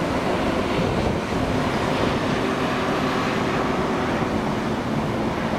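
Train running by, a steady rumble with a faint hum held under it.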